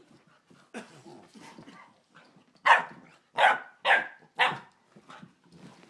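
Dogs play-fighting: four loud barks in quick succession about halfway through, among quieter scuffling noises of the tussle.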